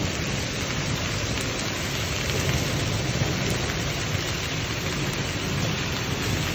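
Heavy rain with hail pouring down on surfaces, a steady dense hiss without letup.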